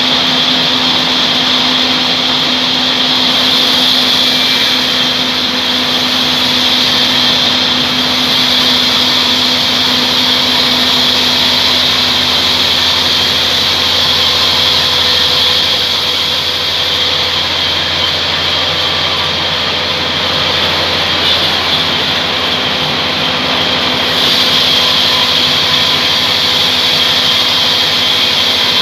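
Band sawmill running steadily, a loud continuous machine noise with a high hiss and a low hum whose note shifts slightly a couple of times.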